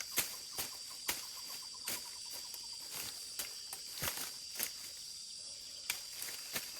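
A steady high insect drone, with irregular light knocks and crunches over it.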